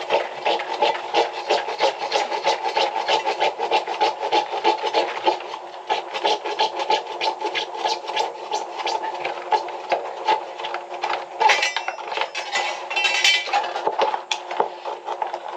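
Rapid, rhythmic rasping strokes, many a second, with a few sharper clicks near the end.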